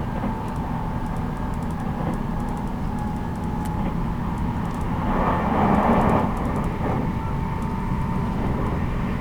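Running noise of a 783 series electric train heard from inside motor car MoHa 783-13 at speed: a steady rumble with a faint whine, and a louder rushing swell about five seconds in that fades a second or so later.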